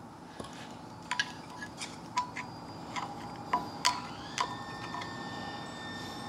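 Light metal-on-metal taps and clinks from hand tools and bearing parts during front wheel bearing work: about ten short, irregularly spaced clicks, each ringing briefly like a small bell.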